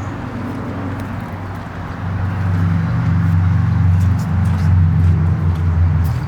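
1963 Cadillac Fleetwood 60 Special's 390 V8 running on a cold start, growing louder about two seconds in and then holding a steady, deep note.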